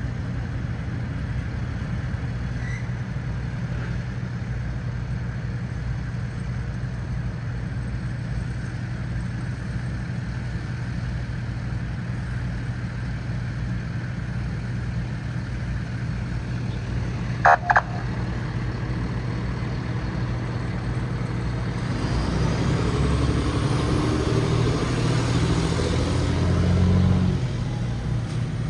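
Steady low hum of an idling engine, two short beeps about two-thirds of the way through, then a louder engine sound that builds over the last several seconds and falls away near the end.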